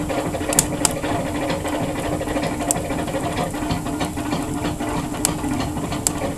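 Wood fire burning in a fireplace: a steady rushing hiss under a faint hum, with about five sharp crackles spread across the few seconds.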